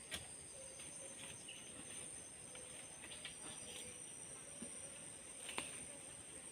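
Faint, steady high-pitched drone of a forest insect chorus, crickets or similar, with two sharp clicks: one just after the start and one near the end.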